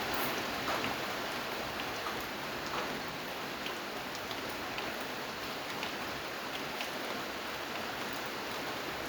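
Steady rain falling, an even hiss with scattered individual drops ticking sharply on a hard surface.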